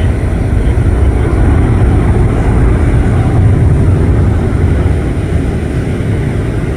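Boeing 777-9's twin GE9X turbofan engines in flight: a loud, deep, steady jet rumble that swells slightly a few seconds in.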